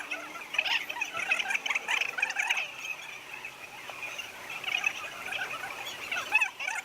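A dense chorus of many overlapping high chirps and squeaks from small animals, continuing without a break.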